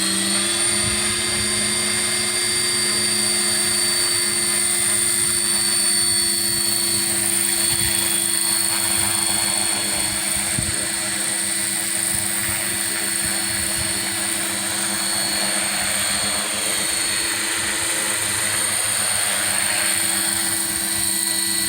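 Electric RC scale Airbus H145 model helicopter in flight: a steady whine from its motor and rotors, rising slightly in pitch at the very start and then holding even.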